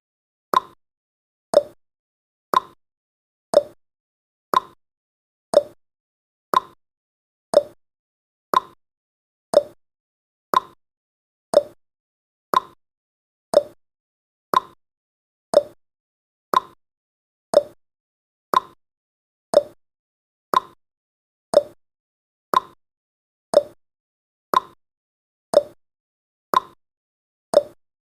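Countdown timer sound effect ticking once every second: a short, quick pop that dies away fast, repeated evenly.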